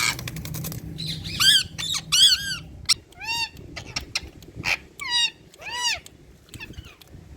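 Indian ringneck parakeet giving a series of short, arching squawks, about six calls over a few seconds.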